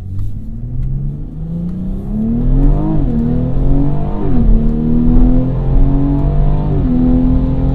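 BMW M240i's B58 turbocharged 3.0-litre inline-six accelerating hard through the gears, heard from inside the cabin: the engine pitch climbs, drops sharply at upshifts about three, four and seven seconds in, and climbs again after each.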